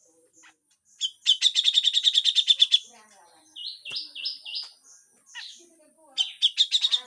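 Cucak jenggot bulbul giving harsh scolding calls: a rapid rattle of about ten rough notes a second, then four short whistled notes, then another harsh rattle near the end, over a faint steady high hiss.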